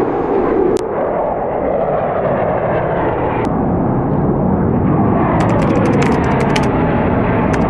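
Jet aircraft passing overhead, a loud, rumbling roar that swells and shifts in pitch. From about five and a half seconds in, a mountain bike's rear freehub ticks rapidly as the bike coasts.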